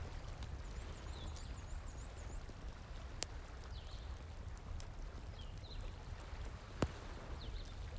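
Campfire crackling, with scattered pops, a sharp one about three seconds in and a louder one near the end, over a steady low rush of flowing water. Faint, short, high chirping calls recur throughout.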